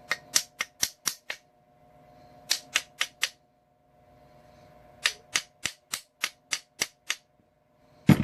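Hammer striking the end of a piece of copper tubing to flatten it, in three quick runs of sharp metallic blows, about six, then four, then eight, each run at three or four blows a second. Near the end comes one heavier, deeper thud.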